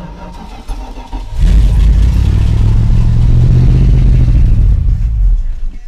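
1984 Dodge Ram pickup's engine running just after starting, then revving loudly for about four seconds from about a second and a half in, and dropping away near the end. The truck has a running problem that the owner suspects is a mix of fuel starvation and an electrical fault.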